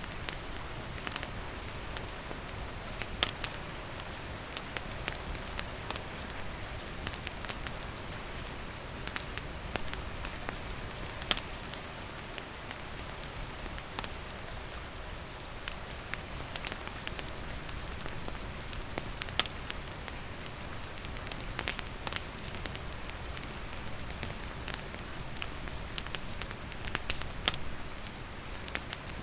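Steady rain falling on and around a wooden shelter, mixed with a campfire's wood crackling in scattered sharp pops.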